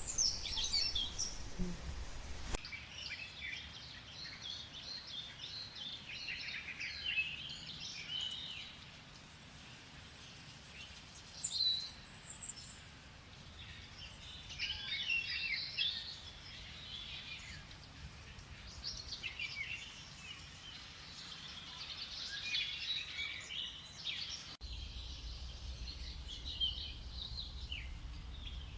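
Tropical forest ambience: several birds chirping and calling in overlapping bursts, over a faint steady background.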